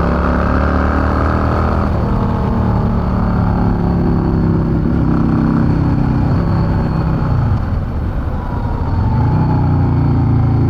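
Yamaha V-Star 650's air-cooled V-twin engine running under way. About eight seconds in, the engine note falls and the level dips as the bike slows, then it picks up again as it accelerates.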